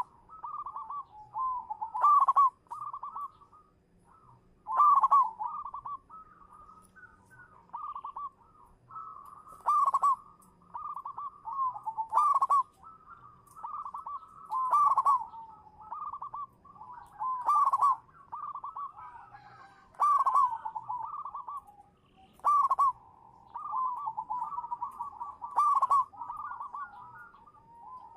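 Zebra dove (perkutut) cooing over and over. A loud phrase comes about every two and a half seconds, with softer coos in between.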